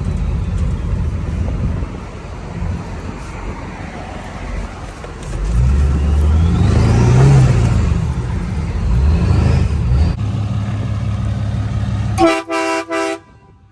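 A vehicle engine running, growing louder with a rising whine about five seconds in before settling back, then a horn honks in a few quick stuttered blasts near the end.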